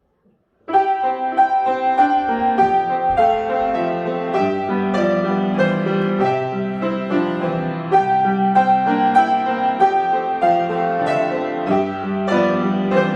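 A piano piece begins less than a second in after silence, played at a steady pace with one high note repeated over changing chords.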